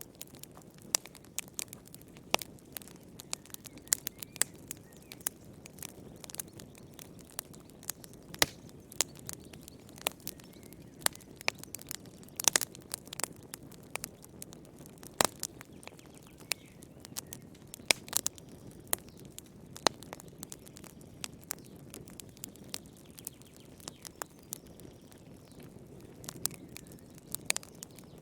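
Wood fire crackling in a fireplace: irregular sharp pops and snaps, several a second, over a soft steady low rustle of the burning fire.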